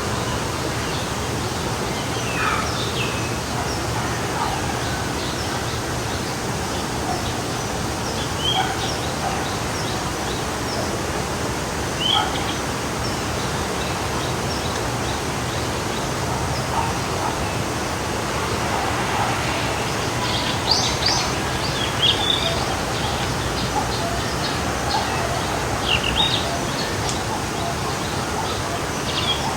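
Forest stream flowing steadily, with birds chirping and calling over it, the calls coming more often in the last third.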